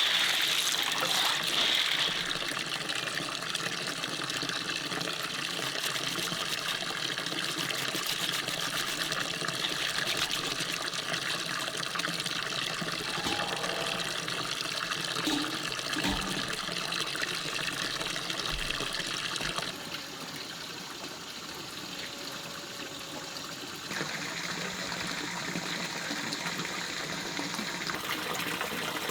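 Forest stream water running and trickling steadily. The sound drops suddenly about twenty seconds in and comes back up a few seconds later.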